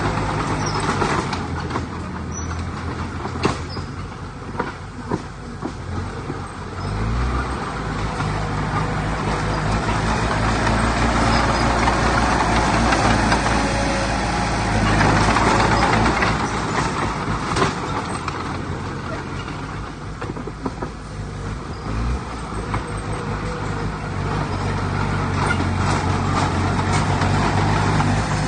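Heavy diesel earthmoving machinery running steadily, its engine pitch shifting briefly twice, with a rising and falling rush of working noise over it.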